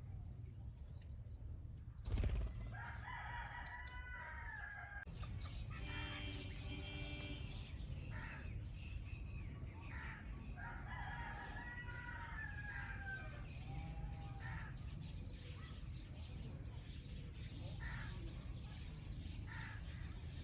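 A rooster crowing twice, each crow about two and a half seconds long, the first just after a sharp knock about two seconds in. Shorter bird calls come between the crows over steady low background noise.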